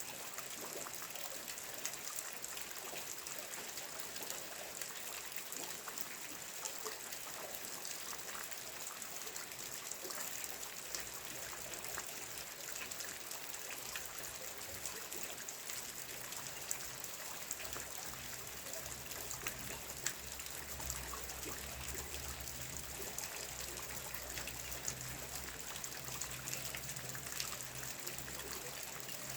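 Steady rain, an even hiss dotted with many single drops. A faint low hum joins about a third of the way in.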